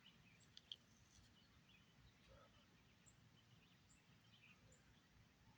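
Near silence: faint outdoor ambience with a few faint, scattered bird chirps and a small click under a second in.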